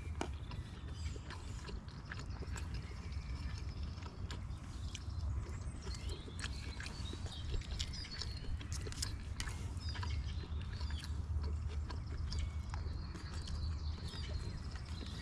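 Eating from camping cookware: irregular clicks and scrapes of a spoon against the pan, over a steady low rumble.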